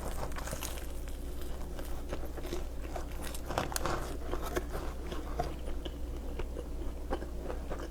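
A person chewing and biting food close to the microphone, with many small crunchy clicks.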